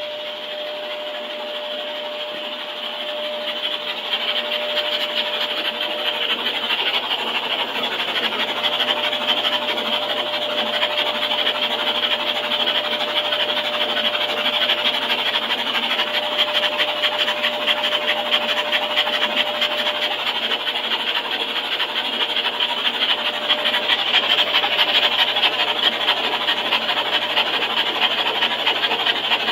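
Rebuilt solid-lifter 427 big-block Chevrolet V8 with tri-power carburettors running steadily on a test stand during its break-in run. It gets a little louder a few seconds in.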